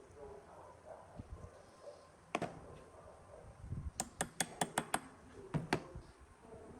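Sharp clicks or taps on something hard: a single one, then about a second and a half later a quick run of six at about six a second, then two more close together.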